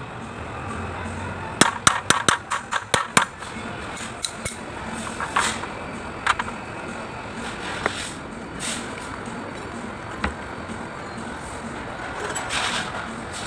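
Quick run of about a dozen sharp metallic taps and clinks in under two seconds, then single clinks every second or so: metal tools and small pump parts being handled during injection pump repair work.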